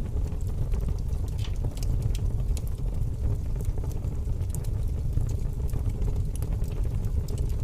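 Aquarium water and filter running: a steady low rumble with many small scattered pops and ticks, like air bubbles bursting at the surface.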